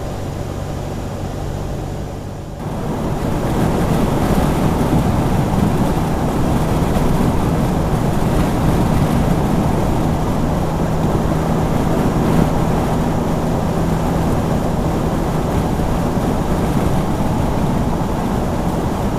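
Car engine and road noise heard from inside a moving vehicle: a low steady hum, then about two and a half seconds in it gets louder into a steady rush of engine, tyres and wind as the car picks up speed.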